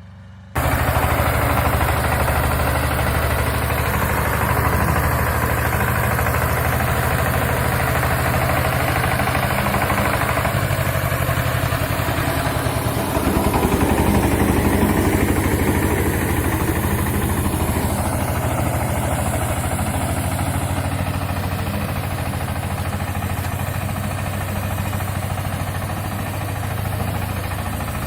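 Mini tractor engine running steadily, with a low, even drone. It grows louder about 13 seconds in, then eases back.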